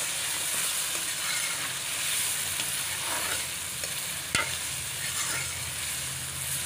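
Chopped bitter gourd and ginger-garlic paste sizzling steadily in hot oil in a metal wok while a metal spoon stirs and scrapes the pan, with one sharp knock of the spoon about four seconds in. The paste is being fried until its raw smell is gone.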